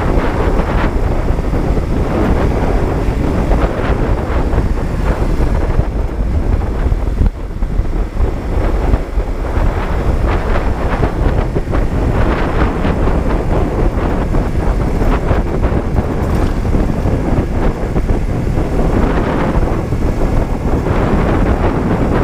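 Honda CB125T's 125 cc parallel-twin engine running as the motorcycle rides along, with wind buffeting the microphone. The sound eases briefly about seven seconds in.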